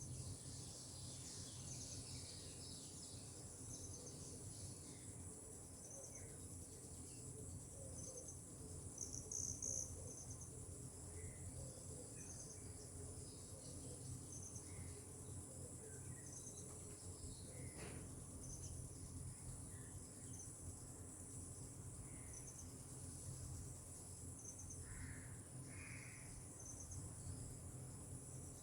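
Insects trilling steadily and high, with short high chirps repeating every second or two. A few brief bird calls come and go over a faint low rumble.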